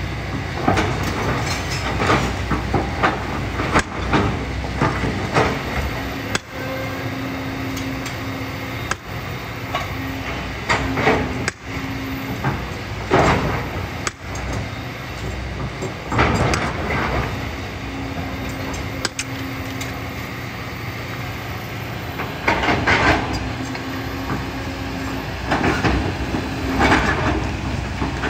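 Kobelco excavator working in sand and gravel: the engine runs steadily under load with a hum that rises in and drops out several times, while the bucket scrapes and clatters against stones in bursts of knocks.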